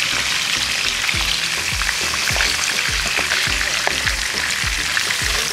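Pork chops sizzling and crackling as they fry in hot oil in a frying pan, a steady hiss, over background music with a steady beat.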